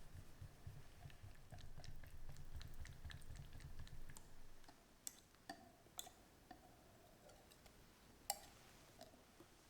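Light clicks and taps of kitchen utensils, about half a dozen, the sharpest ones near the middle and near the end with a brief ring, over a low rumble that fades out before the halfway point.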